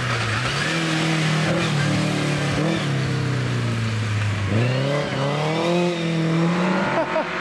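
Rally car engine through a corner: the revs sink steadily as the car slows, then climb sharply about four and a half seconds in as it accelerates away, with another rise in revs near the end.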